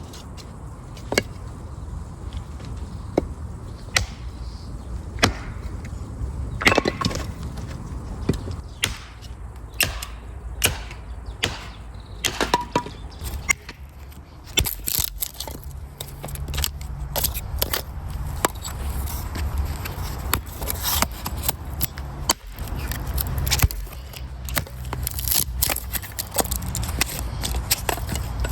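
Dry wood cracking and snapping: sharp irregular cracks, sparse at first and coming much thicker from about halfway through, over a low steady rumble.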